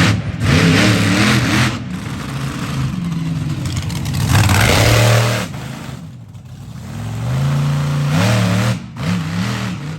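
Monster truck engine revving hard in repeated surges, its pitch climbing and falling. The loudest surge comes about halfway, then the engine eases off briefly before revving up again.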